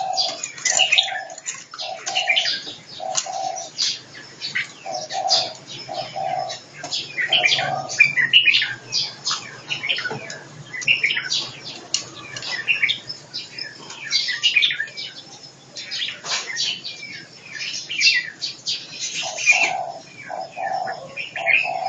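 Several birds chirping and whistling at once in short, overlapping high notes. A run of low, evenly repeated notes, roughly one a second, sounds under them in the first several seconds and again near the end.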